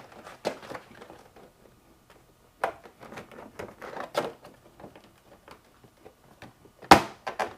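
Plastic trunk side panel of a Honda Gold Wing being pried and pushed loose from its plastic tabs: light scraping and scattered small clicks and knocks, with a sharp click near the end.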